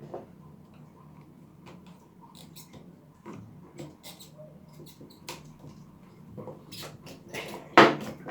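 Light scraping and small plastic clicks as a screwdriver pries at a fuel line's quick-connector clip on a fuel pump assembly, with a sharp louder snap near the end as the connector comes free.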